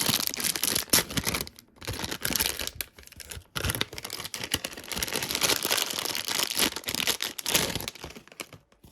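A Thomas Minis toy package being torn open by hand: plastic wrapping crinkling and tearing, with a couple of brief pauses.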